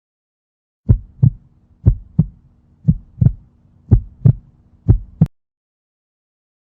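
Heartbeat sound effect: five double thumps (lub-dub), about one a second, that stop a little over five seconds in.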